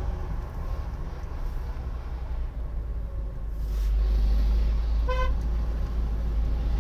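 Low, steady rumble of a road vehicle that grows louder about four seconds in, with one short vehicle horn toot a little after five seconds.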